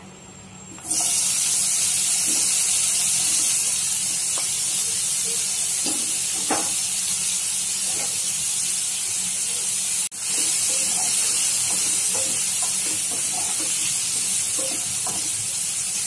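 Paneer cubes frying in hot oil in a nonstick pan: a steady sizzling hiss that starts suddenly about a second in, with a few light pops. The hiss cuts out for an instant about ten seconds in.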